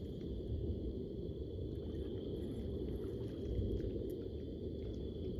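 Steady low rumble, with a faint steady high-pitched drone and a few faint ticks over it.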